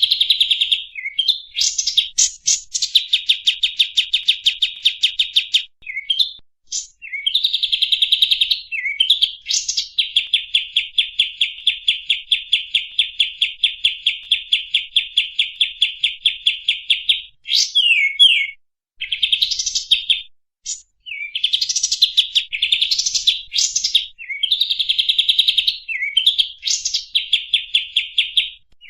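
A recorded songbird song used as 'masteran' training audio. It runs in long, fast, even trills of high notes, broken by short sweeping chirps and brief pauses.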